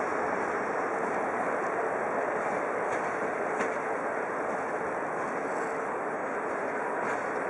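Steady rumble of a train in a railway station, with a faint steady hum and a few light clicks.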